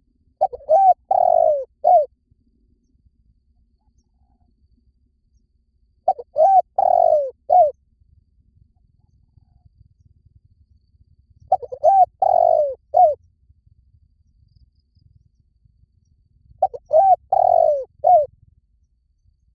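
Spotted dove cooing: four phrases of several soft, low cooing notes each, repeated about every five seconds.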